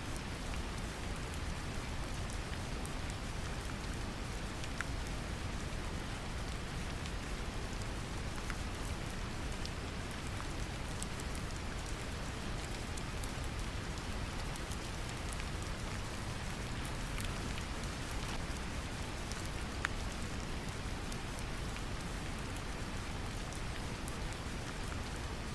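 Brown noise, a steady deep rumble, mixed with gentle rain falling on a surface, with scattered individual drop ticks.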